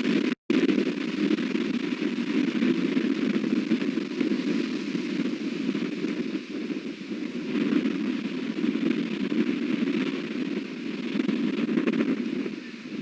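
Strong wind buffeting the nest camera's microphone: a steady rush that swells and eases with the gusts. The audio drops out for an instant about half a second in.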